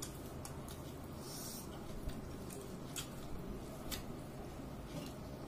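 Quiet eating sounds: scattered soft clicks and smacks of chewing over a steady low hum.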